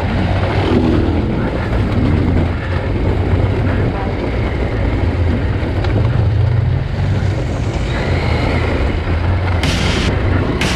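KTM 890 Adventure R's parallel-twin engine running at a fairly steady low pitch while riding, rising a little about six seconds in, with a brief rush of noise near the end.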